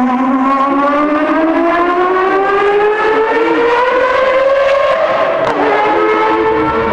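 Mazda 767B's four-rotor rotary engine accelerating hard under load, its high note rising steadily through one gear, then dropping with an upshift about five and a half seconds in and climbing again.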